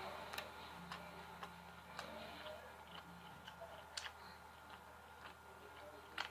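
Faint, irregular small clicks and ticks, about half a dozen spread a second or so apart, over a steady low room hum.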